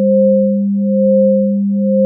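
Isochronic tone: a pure 528 Hz sine tone swelling and fading about once a second, twice here, over a second steady, lower electronic hum-like tone.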